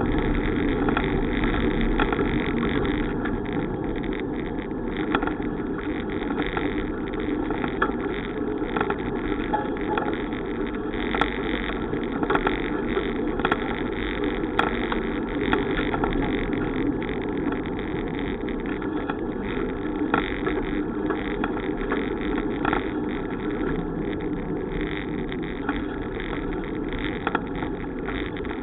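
Steady rushing noise of a bicycle ride: wind across the microphone and tyres rolling on the road, with a few light clicks around the middle.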